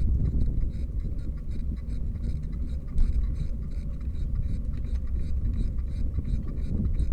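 Wind buffeting the microphone and road rumble from a moving bicycle, with faint regular ticks and a single knock about three seconds in.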